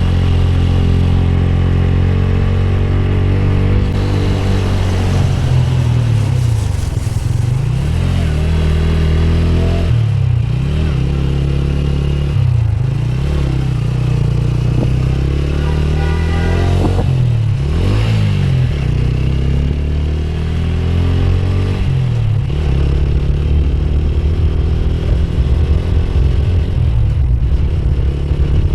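Motorcycle engine running while riding, its pitch rising and falling several times with throttle and gear changes.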